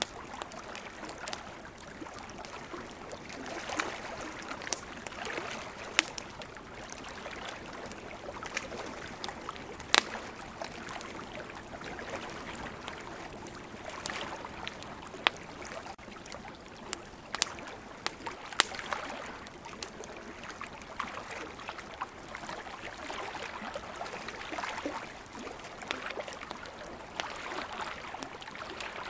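Wood campfire crackling, with sharp pops scattered throughout, over the steady wash of ocean waves.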